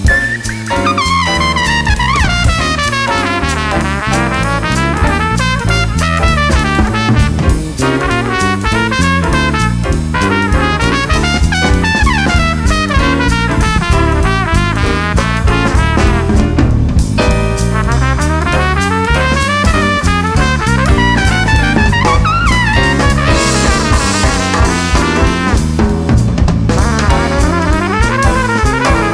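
A jazz band playing, with a trumpet carrying the melody over a drum kit.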